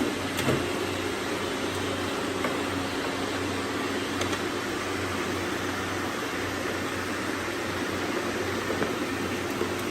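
Robot vacuums running with a steady whir of motors and suction, with a brief click just after the start.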